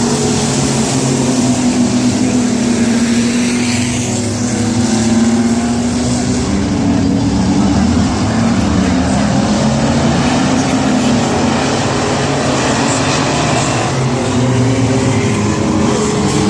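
Race trucks' engines running at speed around a short oval speedway, several engines at once, their pitches overlapping and drifting up and down.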